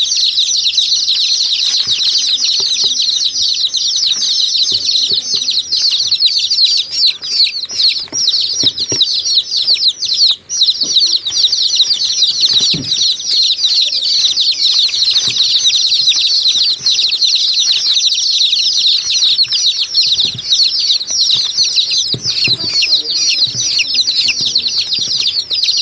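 Large flock of small birds chirping continuously, many calls overlapping into a dense, steady chatter, with occasional soft wing flutters beneath.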